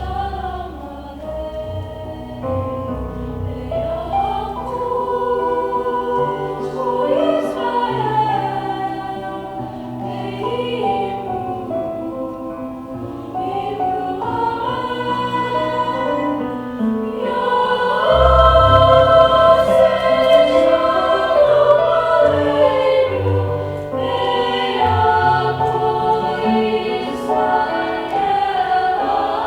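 High school choir singing, swelling louder about eighteen seconds in.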